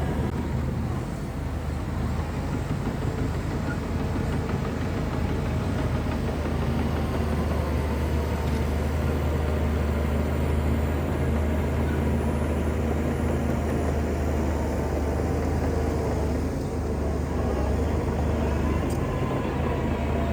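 Shantui bulldozer's diesel engine running steadily with a deep, even hum.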